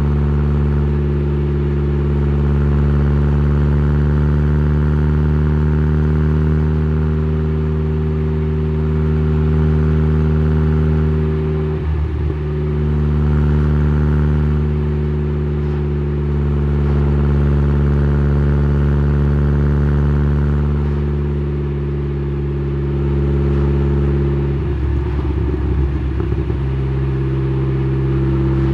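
Exhaust note of a tuned Saab 9-3's turbocharged 2.0-litre four-cylinder (B204) through a 3-inch downpipe and Simons muffler, heard right at the tailpipe, running at fairly steady revs with gentle swells in loudness. Two brief rough, rattly patches break in, one about midway and one later on.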